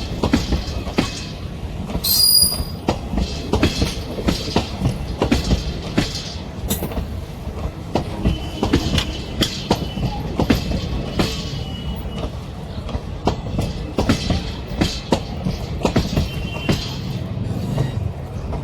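Passenger train coaches rolling past, their wheels clattering over rail joints in a steady run of clicks over a low rumble, with a few brief high wheel squeals.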